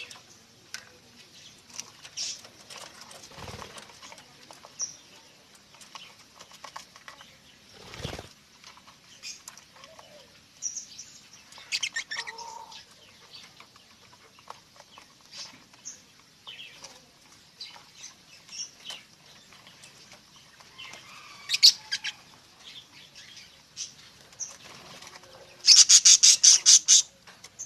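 Budgerigars chirping in short, scattered high-pitched calls and fluttering their wings, with a loud, rapid run of about ten sharp beats near the end.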